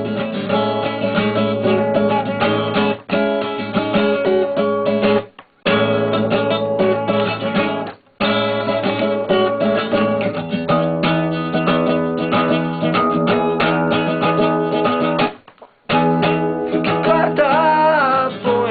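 Instrumental break of a live band song, led by guitar. The music stops briefly three times: about five seconds in, about eight seconds in and about fifteen seconds in.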